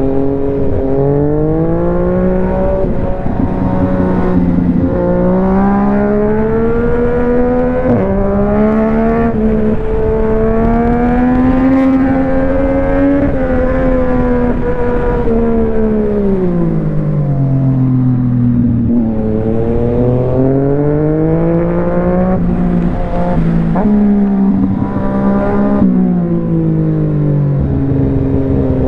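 Yamaha MT-09 inline three-cylinder engine under way, its note rising and falling as the bike accelerates and slows, with a long fall in pitch in the middle and repeated climbs near the end.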